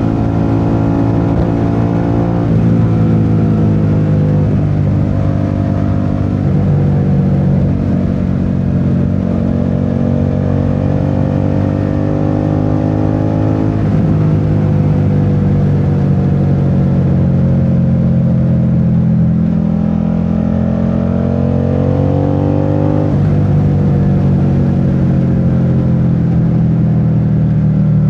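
Suzuki SV650's 645 cc V-twin engine running under way, its pitch climbing slowly several times and dropping suddenly about 14 and 23 seconds in, as on gear changes.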